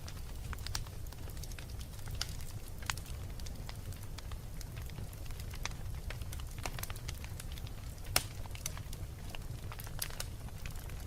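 Wood fire burning in a fireplace: irregular pops and crackles over a steady low rumble of flame, with one sharper pop about eight seconds in.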